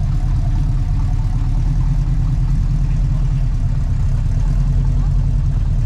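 Car engine running steadily at low revs, a continuous low rumble with no change in pitch.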